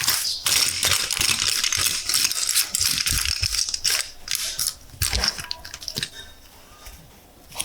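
Small plastic building bricks clattering and clicking against one another in a dense run of rattles, dying down near the end.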